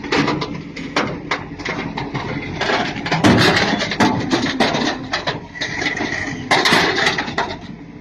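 Irregular knocks and clattering over a rumbling background noise.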